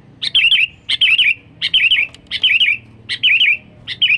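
Sooty-headed bulbul (kutilang) calling loudly: the same short, bubbly, warbling phrase repeated six times, about one every 0.7 seconds.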